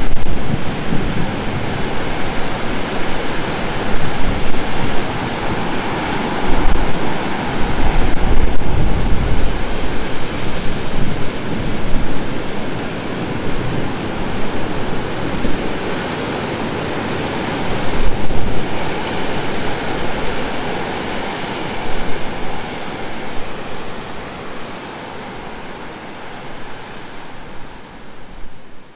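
Heavy surf from a typhoon-driven swell: waves breaking in a continuous rush of noise that swells every few seconds, with wind rumbling on the microphone. It fades down near the end.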